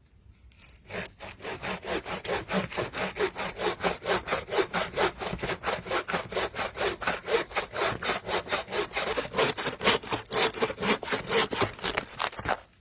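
A handsaw cutting through wood in quick, even back-and-forth strokes, about four a second. It starts about a second in and stops abruptly near the end.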